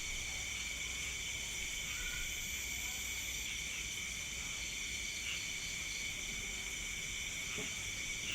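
Night insect chorus, mainly crickets: a steady, unbroken high-pitched trilling in several layered pitches, with a few faint short calls mixed in.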